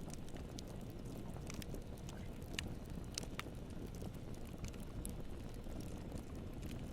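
Campfire burning: a steady low rush of flames with scattered crackles and pops, a few sharper pops about halfway through.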